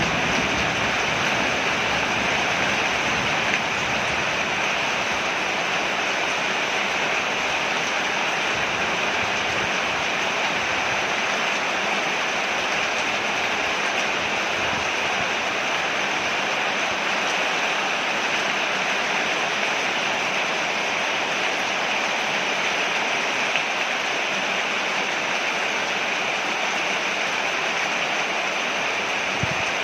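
Steady heavy rain falling on a porch: an even, unbroken hiss of water.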